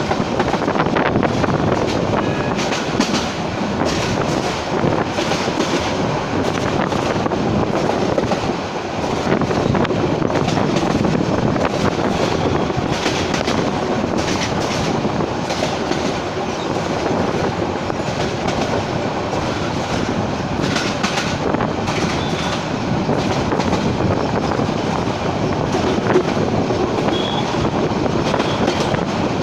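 Passenger train running along the track, heard from on board: a steady rumble with wheels clattering over the rail joints.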